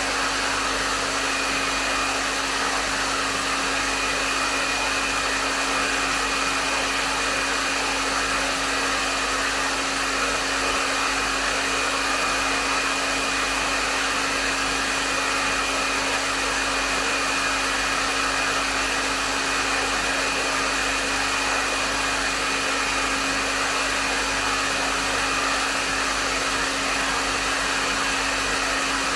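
Hair dryer running steadily at medium setting: a constant rush of airflow with a low motor hum and a faint high whine underneath, unchanging throughout.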